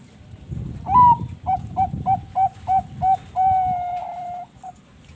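Zebra dove (perkutut bangkok) singing its cooing song: a rising opening note, then a quick run of about seven short coos, then one long held coo and a last short note.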